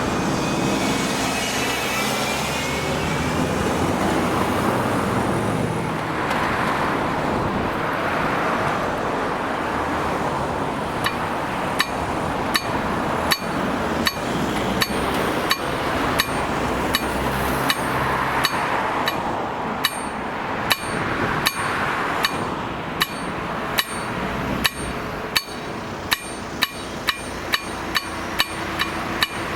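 A train rolls past with a steady, loud rolling noise. About eleven seconds in, the crossing's KLD-4013 warning bell starts up: sharp, ringing strikes about twice a second, continuing over the fading train noise.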